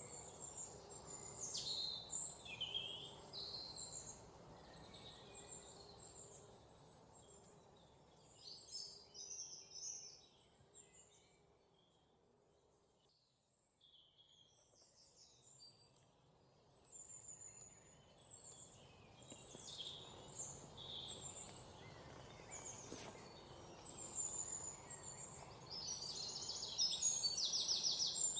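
Several songbirds chirping and calling over a faint outdoor background. The calls thin out and fade nearly away about halfway through, then build back up, with fast repeated trills near the end.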